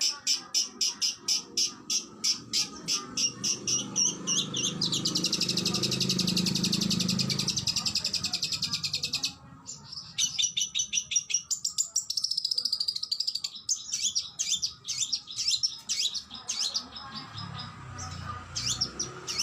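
Oriental magpie-robin singing rapid strings of sharp repeated notes in quick-fire bursts, with a long, fast, buzzy trill in the middle that breaks off about nine seconds in before the rapid note series resume.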